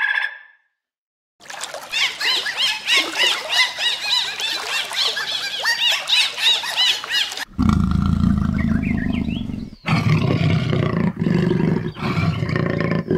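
Dolphins whistling and clicking underwater: quick rising-and-falling whistles over a fast clatter of clicks. These give way suddenly to a cheetah's low rumbling in three long breaths.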